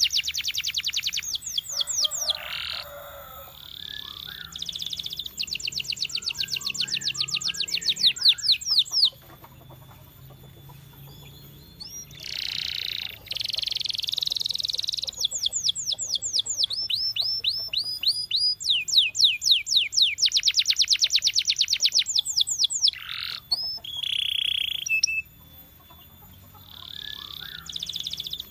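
Domestic canary singing: fast rolling trills of rapidly repeated high notes and a few longer held notes, in phrases with short pauses between them.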